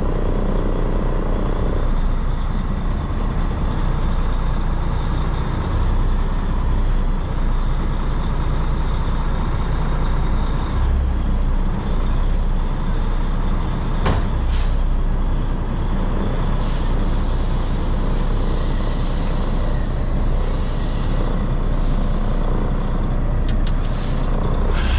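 Semi truck's diesel engine running steadily, with a hiss of released air from the truck's air system lasting several seconds about two-thirds of the way through, and a sharp click shortly before it.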